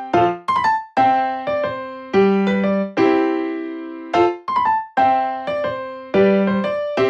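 Background music: a piano-like keyboard playing a light melody of struck notes and chords, each note fading after it is played, in a phrase that repeats about every four seconds.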